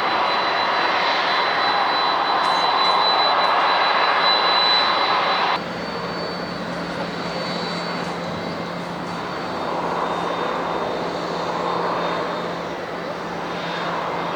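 Jet airliner engines running loud with a thin high whine. About five and a half seconds in, the sound cuts off abruptly to a quieter, steady engine drone with a low hum that swells slightly now and then.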